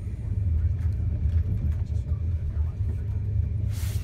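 Enterprise passenger train running at speed, heard from inside the carriage as a steady low rumble. A brief hiss comes near the end.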